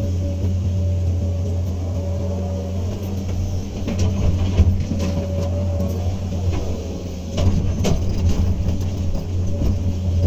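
Hydraulic excavator's diesel engine running steadily at working speed, with a few sharp knocks and clatters about four seconds in and again around seven and a half seconds.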